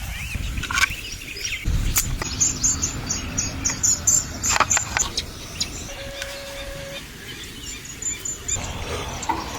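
Birds chirping in a quick series of repeated high notes, with a few sharp clicks mixed in.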